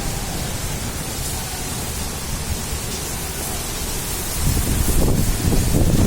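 Steady rain falling in a thunderstorm, a continuous hiss, with a low rumble of thunder swelling about four and a half seconds in.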